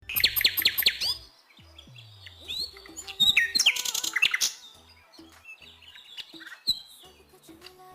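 Small birds chirping: a rapid run of high, falling chirps in the first second, another dense burst about three and a half seconds in, then scattered single chirps.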